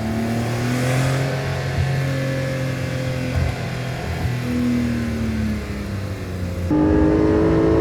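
Exhaust of a 2022 Porsche 911 Targa 4 GTS with its twin-turbo flat-six, the engine note rising and falling in gentle swells. Near the end it turns suddenly louder and higher-pitched.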